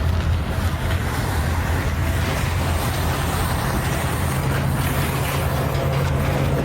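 Steady engine or heavy-machinery rumble, a continuous low hum with a second low tone joining partway through.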